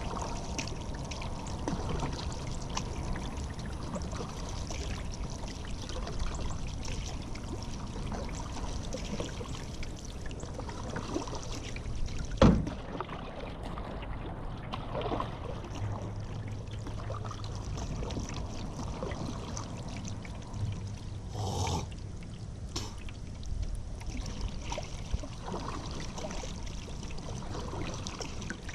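Paddle strokes pulling through river water, with water trickling and dripping off the blade between strokes. About halfway through there is a single sharp knock, the loudest sound here.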